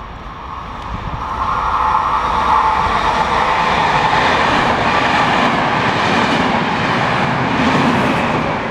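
Electric regional train with double-deck coaches, led by an FS E.464 locomotive, passing through the station without stopping. Its rumble and wheel-on-rail noise build over the first couple of seconds, stay loud as the coaches go by, and ease off near the end.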